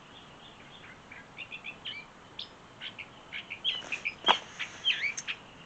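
Wild birds chirping: a run of short, high chirps and a few swooping calls, beginning about a second in, with one brief click partway through.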